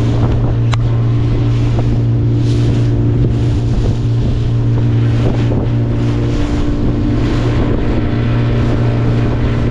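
A fishing boat's motor running steadily at cruising speed with the boat under way, with wind buffeting the microphone.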